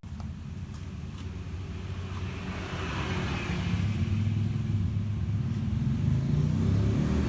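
Scooter engine running with a steady low rumble that grows gradually louder.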